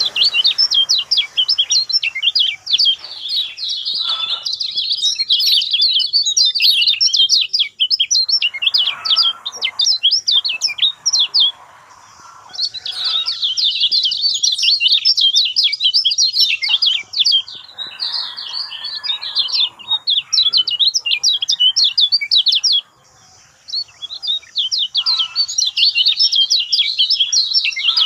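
Kecial kuning songbird singing: long runs of rapid, high chirping notes, broken by two short pauses.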